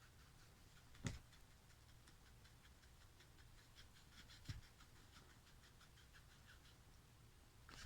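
A cat's faint, quick scratching and ticking, with two soft thumps, one about a second in and one about halfway.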